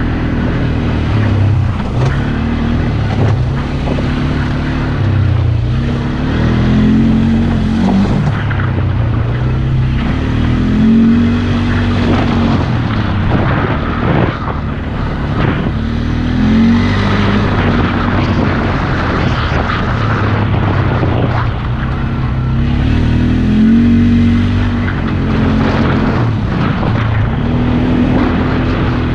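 2012 Polaris Sportsman 400 ATV's single-cylinder four-stroke engine running under hard throttle, its pitch rising and falling again and again, every four to five seconds, as it is revved up and let off.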